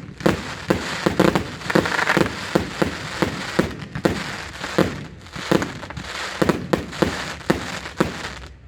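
Fireworks bursting in a rapid run of sharp bangs, about two to three a second, over a dense crackling that is thickest in the first few seconds.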